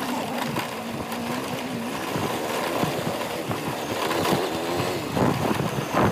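Motorcycle engine running under way, with wind and road noise, its pitch rising and falling as the revs change. A short thump comes near the end.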